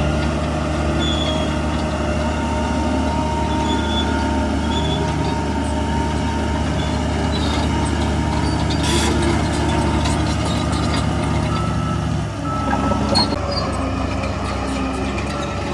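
Heavy diesel earthmoving machinery running steadily, with a brief dip and a short clatter about 12 to 13 seconds in.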